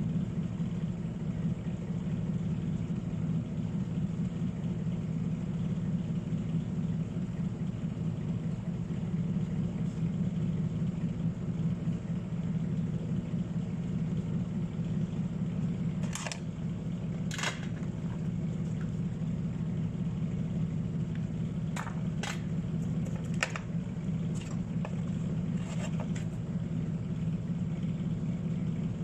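A steady, low machine hum, with a few sharp clicks: two about halfway through and a small cluster later on.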